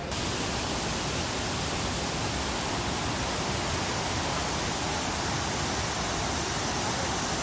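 Waterfall rushing: a steady, dense hiss of falling water spread across all pitches, starting and stopping abruptly.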